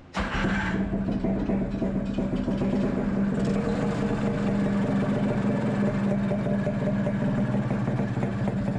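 The rebuilt two-stroke engine of a 1982 Honda Odyssey FL250 running steadily at low speed, cutting in abruptly. It has just been rejetted with a larger pilot jet, and the owner says it won't hold an idle.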